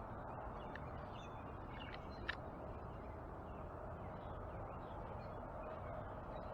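Faint, scattered chirps of backyard birds over a steady outdoor background hiss, with a single sharp click a little over two seconds in.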